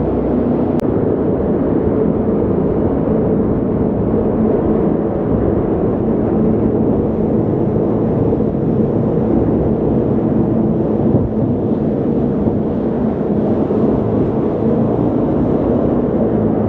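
Jet boat under way, its engine running at a steady, even drone with rushing noise under it.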